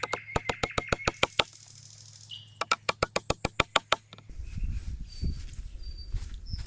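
Rapid series of sharp knocks in two runs of about six a second, followed by a low rumble with a few short bird chirps.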